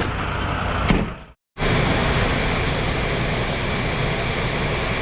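Steady running noise of a grain-hauling semi truck, with a click just under a second in and a brief cut to silence about a second and a half in before the same steady noise resumes.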